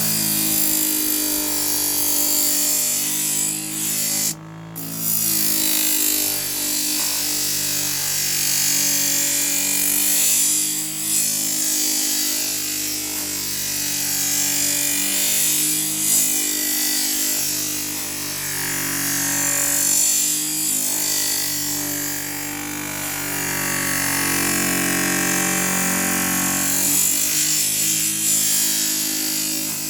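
Electric scissor-sharpening machine running while a kitchen knife blade is ground against its rotating wheel. A steady abrasive hiss sits over the motor's hum, and the low tones shift as the blade's pressure changes. The sound drops out briefly about four and a half seconds in.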